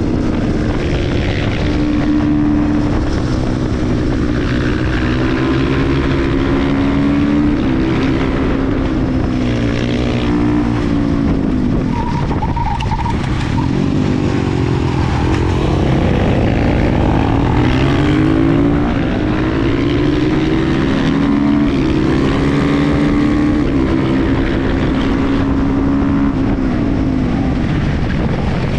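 KTM 350 EXC-F supermoto's single-cylinder four-stroke engine being ridden hard, revving up and dropping off again and again as the rider accelerates, shifts and rolls off the throttle.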